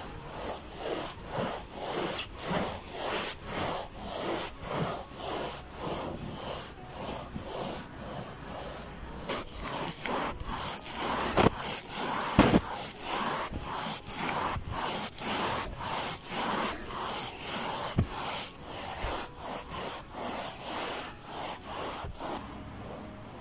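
Steady rhythmic rubbing or scraping strokes, about one and a half a second, with a few sharp knocks in the middle.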